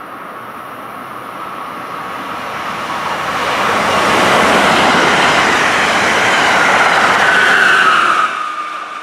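A passenger train passing at speed: the rush of wheels and air builds over several seconds, stays loud, then drops off sharply about eight seconds in, with a whine that slides slightly lower in pitch as it goes by.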